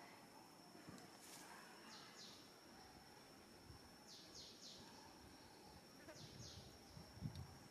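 Faint outdoor ambience: a steady high-pitched insect drone, with short falling chirps in twos and threes from birds, and a few soft low thumps near the end.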